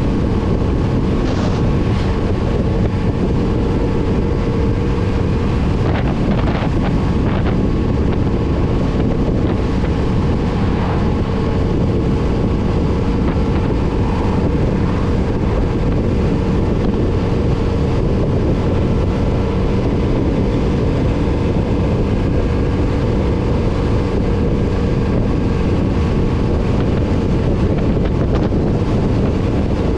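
Kawasaki Z900RS inline-four engine running steadily while riding, with wind noise on the microphone.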